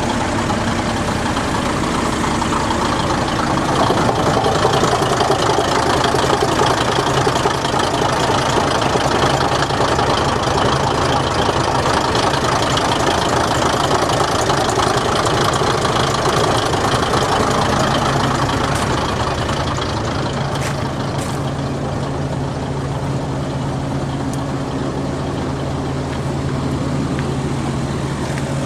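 Kominato Railway KiHa 200 railcar's DMH17 eight-cylinder diesel engine idling steadily at a standstill. It grows a little louder about four seconds in and eases back down later.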